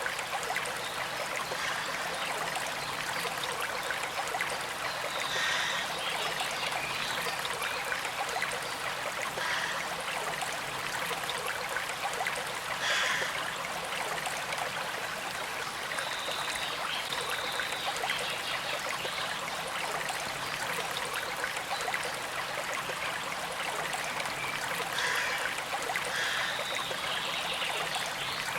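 Gently flowing stream: a steady trickle and flow of water.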